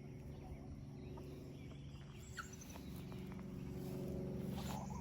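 Quiet backyard sounds: a steady low hum runs throughout, a short, sharply falling bird chirp comes about halfway through, and faint short calls near the end, likely from the hens.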